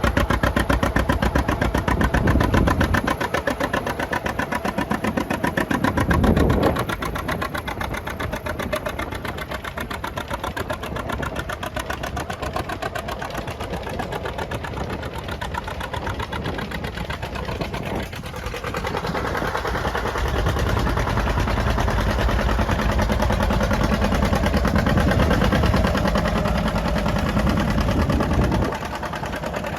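John Deere two-cylinder tractor engine running with an even firing beat. It is louder about six seconds in, quieter through the middle, and louder again from about twenty seconds on.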